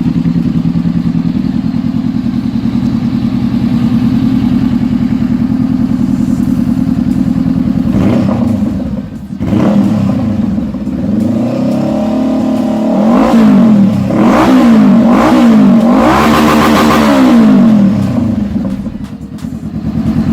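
Honda CB500-series 471 cc parallel-twin engine running through an aftermarket stainless-steel slip-on exhaust: steady idle for about eight seconds, then a series of quick throttle blips, the pitch rising and falling with each rev, before settling back to idle near the end.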